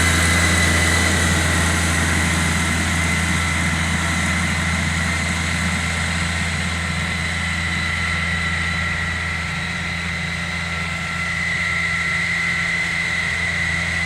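Small four-wheel-drive John Deere tractor's engine running steadily, a low drone with a steady high whine over it.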